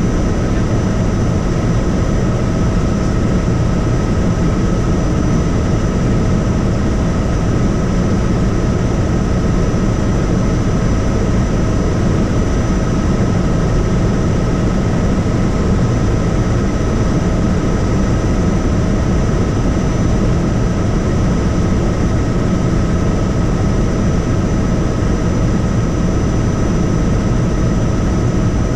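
Helicopter in flight: a steady low rotor and engine rumble with a constant high-pitched whine on top.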